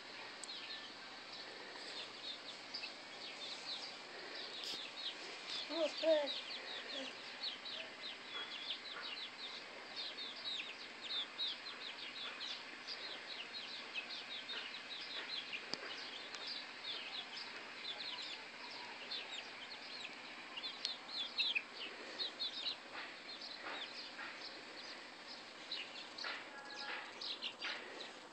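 Flock of chickens clucking and chirping: a continuous chatter of many short, high chirps, with one louder, lower call about six seconds in.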